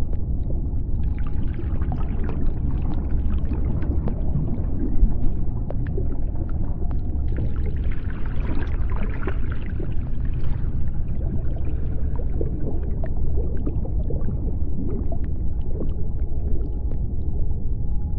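Underwater sea-floor ambience: a steady deep rumble with scattered clicks and crackles, and twice a swell of hissing, bubbling noise.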